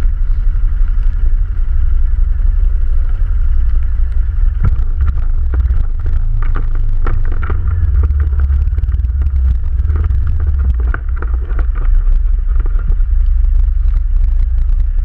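ATV engine running steadily while it is ridden over rough ground, with many short knocks and rattles through the middle stretch.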